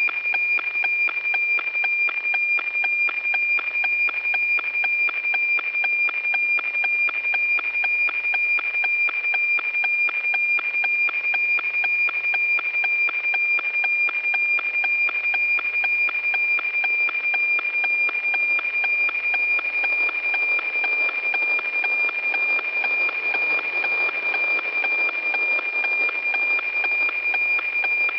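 NOAA-18 weather satellite APT signal heard through a radio receiver: a steady 2,400 Hz tone broken by a regular tick-tock rhythm from the image line sync pulses, with some radio hiss.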